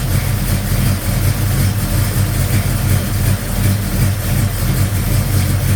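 Chevrolet 307 small-block V8 idling steadily. Its valve train runs quiet, with no diesel-like clatter, because the mismatched valve springs and retainers have been corrected.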